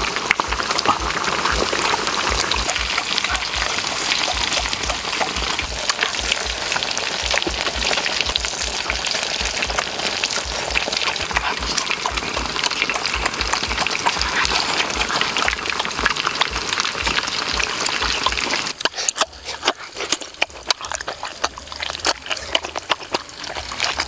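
Steady sizzling hiss of food frying in a pan over a wood fire. About three-quarters of the way through it gives way to uneven wet clicks and smacks of someone eating juicy fruit.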